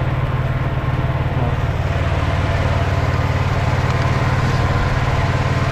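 Mini tractor's engine running steadily at an even pace, loud and close.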